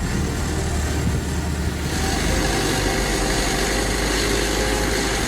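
Tractor engine running steadily; the sound changes abruptly about two seconds in.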